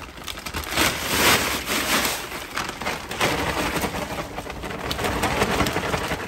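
Bird seed and its sack being handled: a dry rustling and pattering with small crackles, swelling louder for a moment about a second in.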